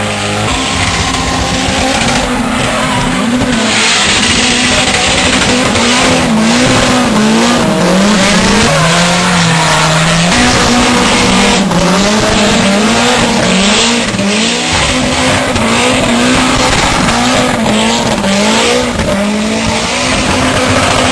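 Drift car doing a burnout: the engine is held at high revs that rise and fall over and over, while the spinning rear tyres squeal and skid.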